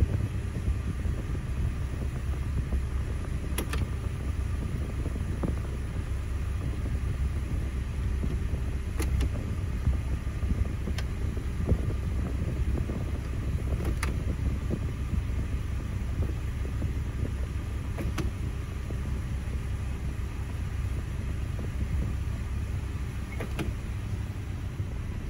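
Honda HR-V's 1.8-litre four-cylinder engine idling steadily, heard from inside the cabin, with about six sharp clicks a few seconds apart as the gear selector is moved from position to position. The CVT is being cycled through its gears to circulate freshly changed fluid.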